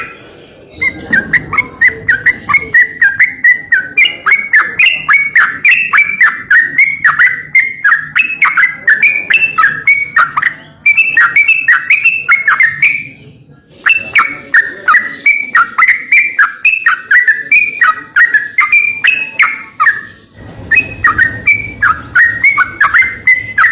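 Songbird singing a fast 'crocokan' run of short, sharp, downward-sliding chirps, about three a second, breaking off briefly twice. This is the kind of chirping kept as a master recording for training cage songbirds.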